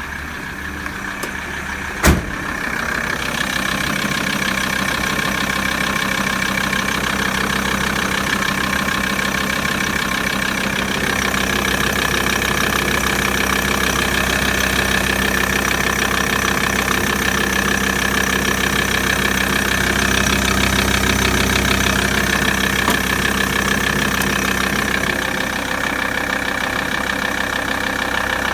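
Volkswagen T4's 2.5 TDI ACV five-cylinder turbodiesel running steadily at idle, with one sharp knock about two seconds in.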